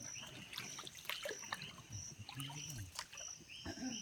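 Insects buzzing in a high, steady drone, with a short chirping call repeating about every half second. Scattered knocks and light splashes come from a canoe being paddled.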